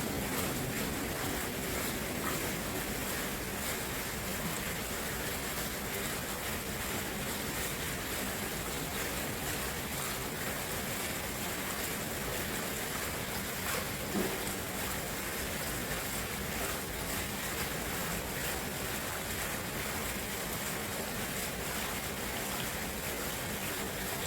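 Steady rushing of flowing water, an even wash of noise with no break.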